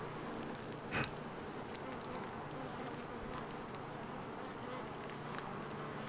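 A honey bee swarm buzzing in a steady hum, with one brief louder sound about a second in.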